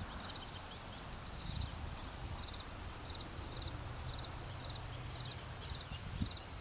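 Outdoor garden ambience: a short, high chirp repeats about twice a second over a steady high hiss, with a low rumble underneath.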